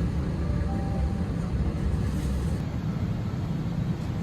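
Steady low rumble inside an Airbus A321 cabin parked at the gate, the aircraft's air-conditioning and ventilation running before departure.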